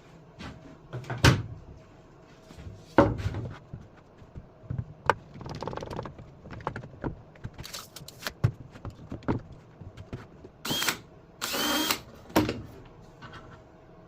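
Plywood being handled and set on a table saw sled: scattered wooden knocks and clatter, two heavy thunks in the first few seconds, then two short bursts of a cordless drill near the end.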